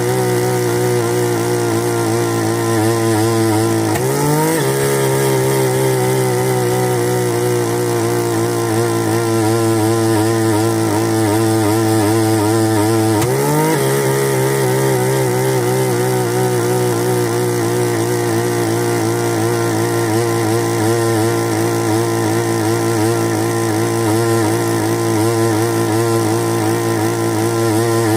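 Bernard Moteurs W14 15 hp engine running steadily. Its speed sags briefly and picks back up twice, about four seconds in and again about thirteen seconds in.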